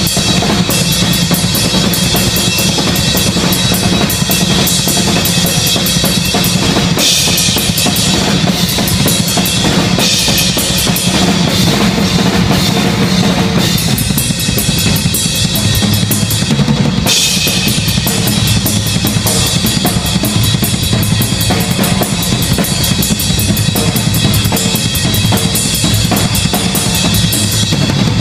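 Live heavy-metal drum solo on a full drum kit: fast, unbroken strokes of bass drum, snare and toms, with cymbal crashes washing in at several points.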